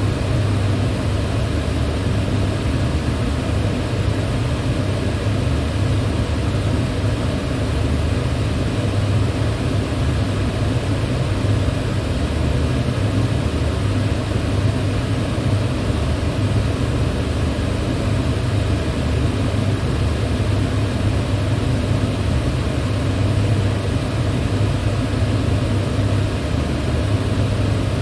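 Electric fan running steadily: a constant rush of moving air over a low hum, with no change in speed.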